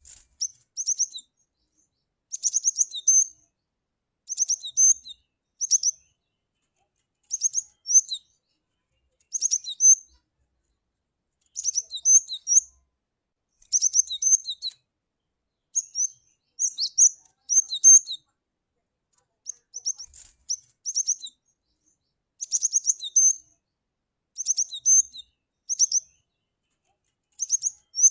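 Cinereous tit (gelatik batu) calling: short bursts of a few quick, high, sharp notes, repeated about every two seconds with silence in between.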